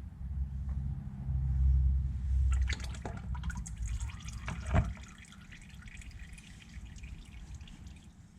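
Old engine oil dripping from the oil filter housing, with a cluster of sharp clicks and knocks in the middle, the loudest near five seconds in. A low rumble fills the first two and a half seconds.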